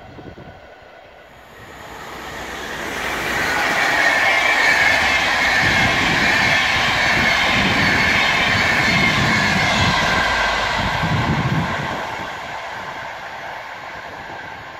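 A double-deck InterCity passenger train passes: its wheel-on-rail noise builds over about two seconds and holds loud for several seconds, then fades as the train moves away. There is a rhythmic low clatter from the wheels through the middle of the pass.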